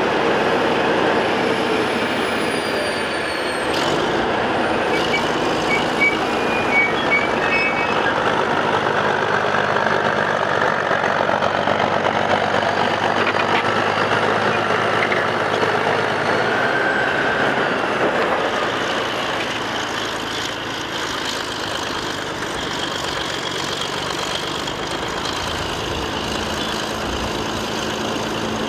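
Caterpillar crawler bulldozer working: its diesel engine running steadily under the clatter of its steel tracks, easing off slightly after about twenty seconds.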